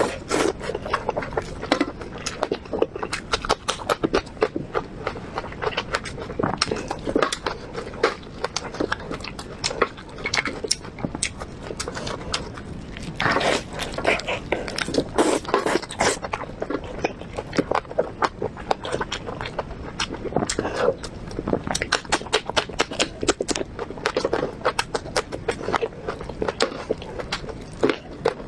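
Close-miked ASMR eating sounds of someone chewing braised pork ribs: irregular wet smacks, clicks and biting sounds, thick and continuous throughout.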